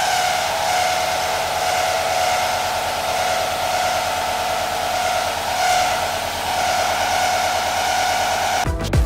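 Hwacheon VESTA-1300B vertical machining center cutting metal: a steady high whine over a hiss, dipping briefly about six seconds in. Electronic music cuts in near the end.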